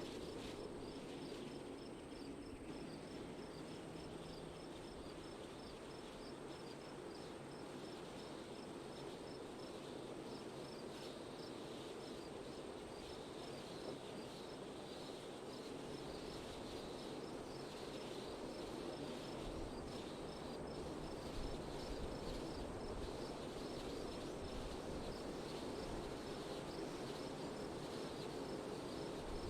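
Wind blowing steadily, a little stronger in the second half, with an insect chirping in an even rhythm of two to three high chirps a second.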